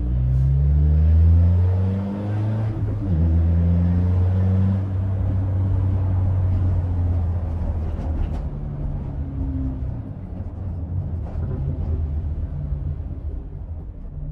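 Peugeot 206's 2.0-litre four-cylinder engine breathing through a straight-pipe exhaust and an open CDA intake, revving up under hard acceleration. It shifts gear about two and a half seconds in and pulls hard again, then eases off and the engine note falls for the rest of the stretch.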